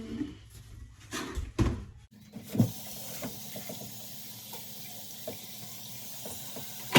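A few knocks of handling, then about two seconds in a kitchen tap is turned on and water runs into the sink with a steady hiss; a sharp click comes at the end.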